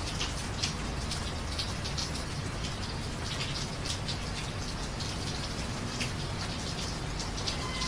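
Steady rain falling, with many irregular drips and splashes over a low steady rumble.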